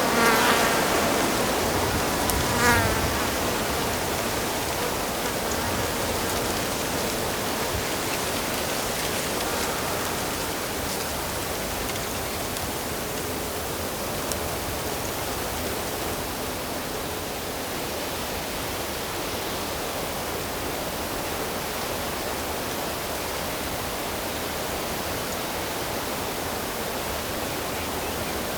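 Steady rush of a stream or small waterfall, with two short, rapid chattering calls from a bird in the first three seconds.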